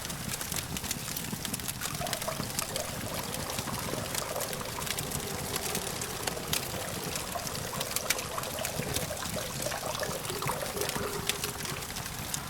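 Campfire crackling, with many small sharp pops and snaps, over a steady hum of distant traffic.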